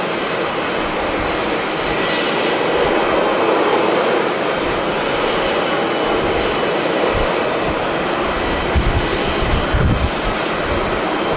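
Jet airliner's engines running loudly as it passes, a dense steady roar with a faint whine on top. Gusts of strong wind buffet the microphone about nine seconds in.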